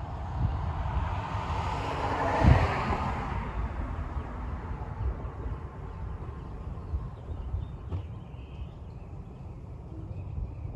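A vehicle passing by, its tyre and engine noise swelling and fading within the first few seconds, over a steady low rumble of wind on the microphone. There are a few faint clicks later.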